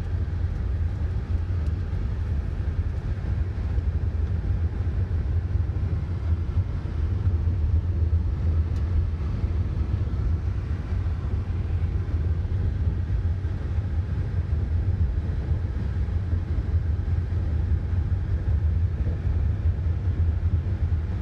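Steady low rumble of a car driving, heard from inside the cabin, with tyre noise from a gravel road.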